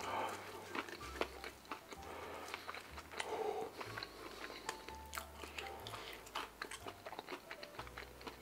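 Close-miked biting and wet chewing of a soft-bun slider sandwich, with many small mouth clicks and lip smacks. A faint low bass line of background music runs underneath.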